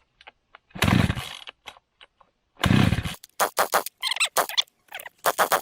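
Recoil starter of a small, cheap two-stroke chainsaw pulled twice, each a short rasping pull that does not start the engine; the starter is catching and sticking. After that come a quick run of short scraping, rattling strokes.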